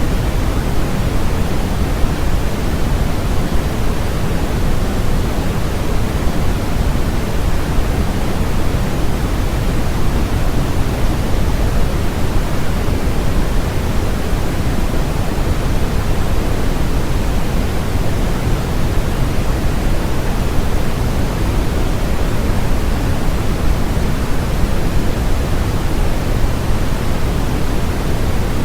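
Steady, unchanging electronically generated noise, sold as white noise: an even rushing hiss with no rhythm or events, weighted more toward the low end than the highs.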